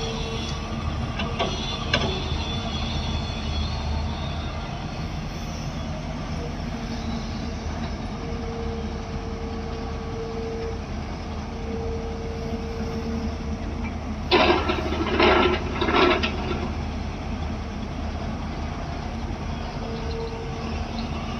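Diesel engine of a backhoe loader running steadily, with a mid-pitched whine that comes and goes, and a brief burst of loud metallic clattering about two-thirds of the way through.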